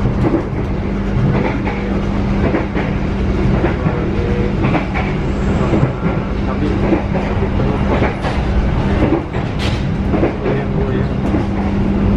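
Interior of a moving passenger train coach: a steady rumble with a constant low hum, and the wheels clicking irregularly over the rail joints.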